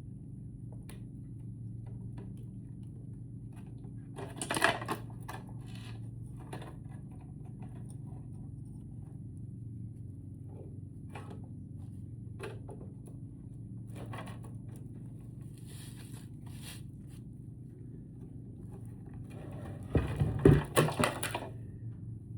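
Hand tools and battery parts being handled while a lithium battery is taken apart: scattered clicks and scrapes, with a louder clatter about four seconds in and a longer run of clattering knocks near the end, over a steady low hum.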